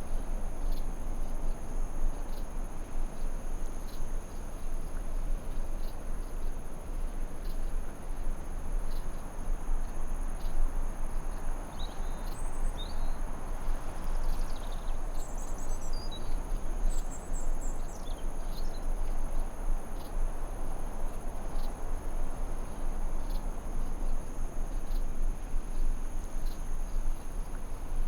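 Forest ambience: a steady high insect trill, typical of crickets, over a constant low rushing hiss, with a few short chirping bird notes in the middle.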